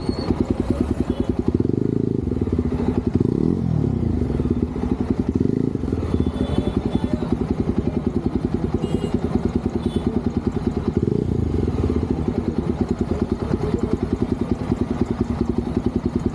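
Motorcycle engine running, its exhaust pulses coming in a steady, rapid beat, with a brief shift in pitch about three to four seconds in.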